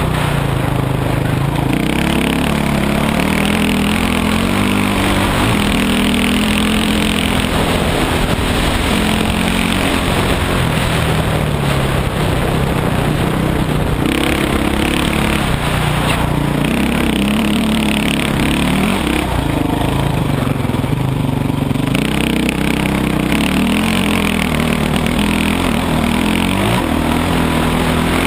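Dirt bike engine running under way, its revs rising and falling with the throttle, over a steady rush of wind noise.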